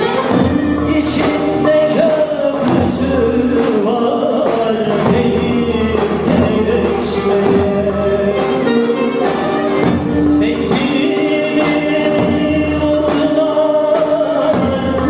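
A Turkish folk song (türkü) performed live: a man sings with held, sliding notes over instrumental accompaniment.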